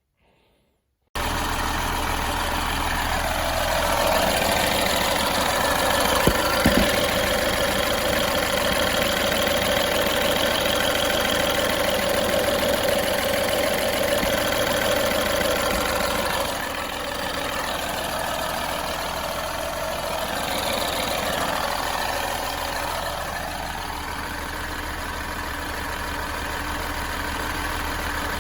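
BMW F20's N13B16 1.6-litre turbocharged four-cylinder engine running steadily with the new vacuum pump fitted. It starts abruptly about a second in, its note rises a few seconds in and eases back down about two-thirds through, and there are a few sharp clicks around a quarter of the way in.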